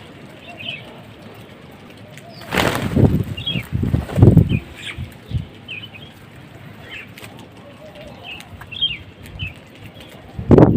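Small birds chirping in short, high calls, with wings flapping in loud flurries about two and a half seconds in and again near the end.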